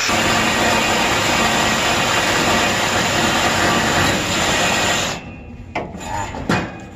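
Battery-powered power tool cutting into the chiller's metal piping, running hard and cutting off suddenly about five seconds in, followed by a few metal knocks.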